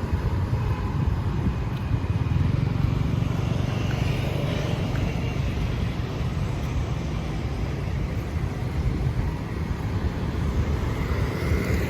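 Steady road traffic passing on a city street, with a constant low rumble.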